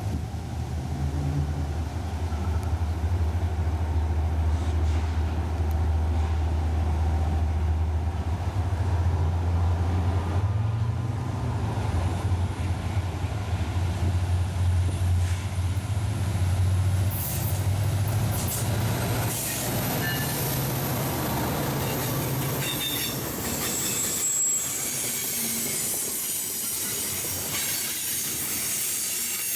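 A train passing at close range. A deep rumble dominates for about the first two-thirds, then high, steady wheel squeal takes over as the cars roll by.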